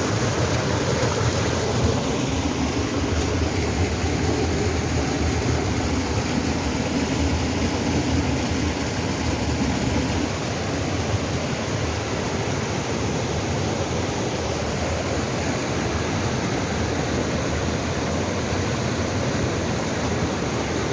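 Mountain valley stream rushing over rocks, a steady even noise that dips slightly about ten seconds in.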